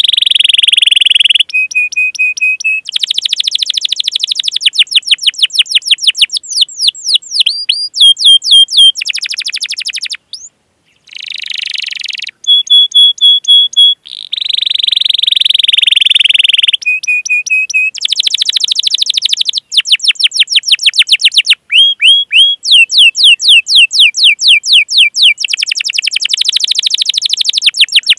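Domestic canary singing a long, loud song of fast rolling trills, buzzy rattles and short repeated chirping notes, broken by one brief pause a little over a third of the way through.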